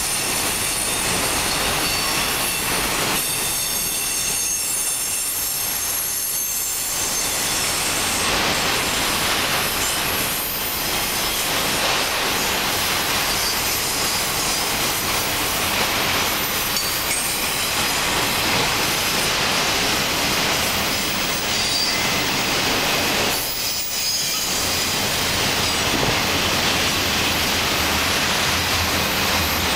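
Freight train of autorack cars rolling past, steel wheels on the rails giving a steady running noise with some clatter, and a high-pitched wheel squeal at times.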